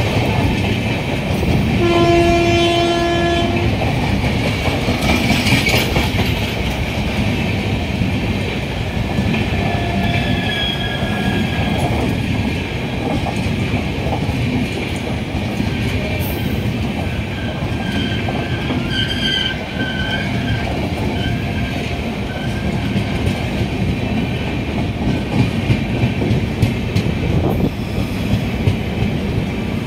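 Express train's passenger coaches rolling past at speed: a steady rumble of steel wheels on rail with clattering over the rail joints, sharper near the end. A locomotive horn sounds once for under two seconds, about two seconds in, and faint wheel squeal comes and goes.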